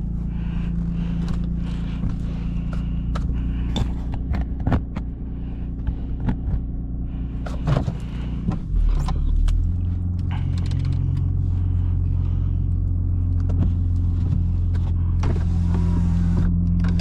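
Lexus IS250's V6 engine running steadily with scattered clicks and knocks. Its note changes about halfway through, and a hiss joins near the end.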